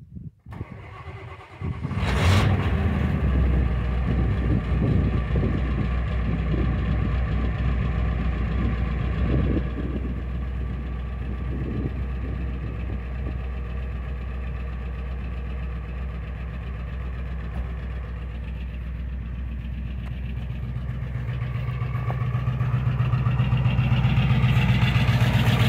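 Ford 7.3 Power Stroke turbo-diesel V8 in an E-350 van cold-starting at −8 °C: it turns over briefly and catches about two seconds in, then runs at a rough, uneven cold idle. The sound grows louder near the end.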